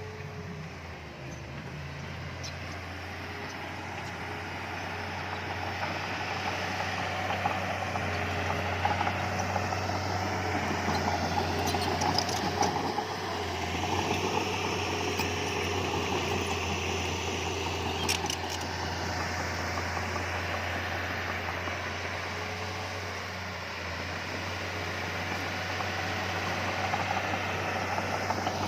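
Diesel engine of heavy earthmoving equipment running steadily, getting louder through the middle, with a few brief clicks.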